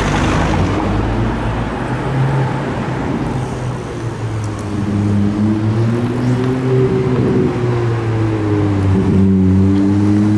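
Ferrari 296 GTB's twin-turbo V6 running at low revs while the car moves slowly in traffic, its pitch wavering slightly and getting a little louder near the end as it comes alongside.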